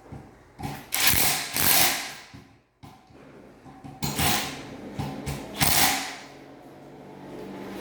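Hand work on a ceiling fan being assembled: scraping, clattering and clicking of its parts in several bursts, followed near the end by a low steady hum.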